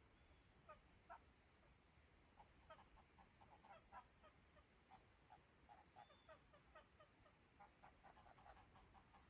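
Faint, distant birds calling in short, quick notes, in irregular clusters, over a steady high hiss.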